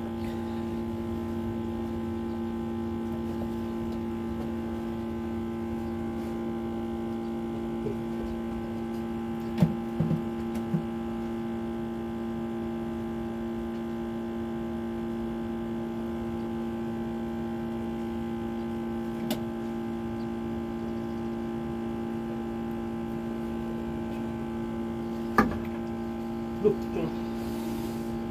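A steady hum of several fixed tones, with a few short knocks scattered through it.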